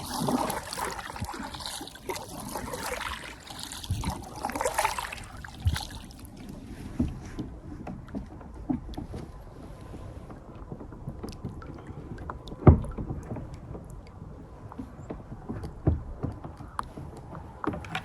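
Kayak paddle strokes splashing and swishing through the water for the first five seconds or so, then scattered knocks and clicks against the kayak's hull, one sharp knock louder than the rest about halfway through.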